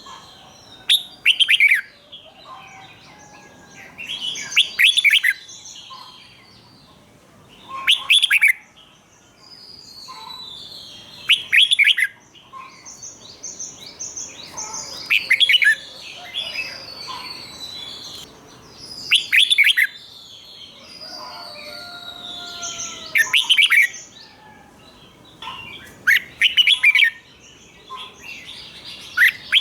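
Red-whiskered bulbul singing its doubled ('bernl') song: loud, short phrases of quick, falling notes repeated about every three to four seconds, with softer twittering between them.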